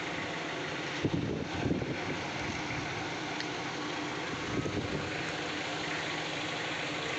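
A car engine running amid steady street noise, with a few brief louder clatters between one and two seconds in.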